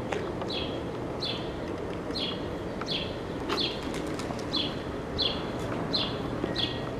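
A bird chirping over and over, short high chirps about one and a half times a second, over a steady low background hum.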